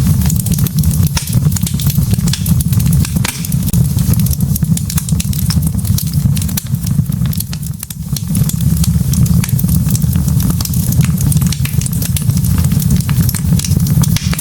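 Log fire burning, with frequent sharp crackles and pops over a steady low roar of the flames.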